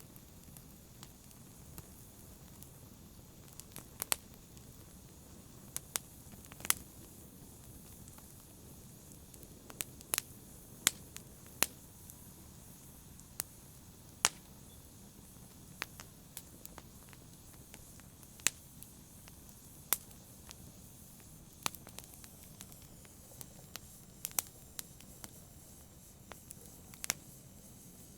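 Campfire burning, with a low steady hiss and sharp, irregular pops and crackles of burning wood, a few much louder than the rest.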